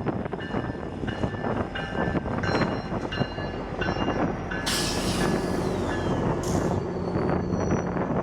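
GO Transit commuter train rolling on steel rails: a dense rumble with many short wheel squeals. A burst of hiss comes about five seconds in, and a shorter one a second and a half later.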